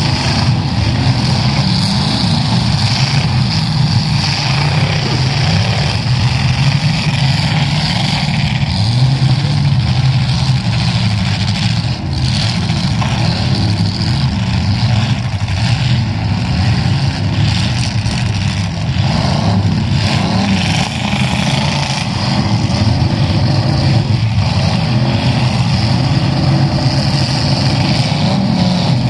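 Several demolition derby cars' engines running and revving together, a dense continuous drone, with a single sharp knock about twelve seconds in.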